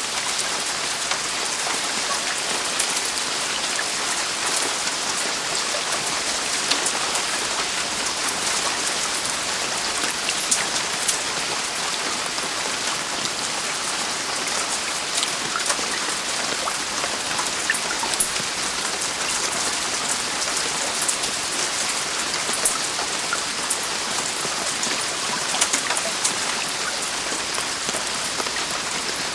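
Heavy rain falling steadily on a roof: an even hiss with scattered sharp drop ticks throughout.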